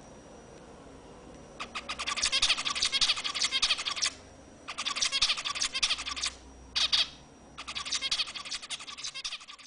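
Small cage birds chirping in rapid, high-pitched runs, in four bouts with short pauses between them.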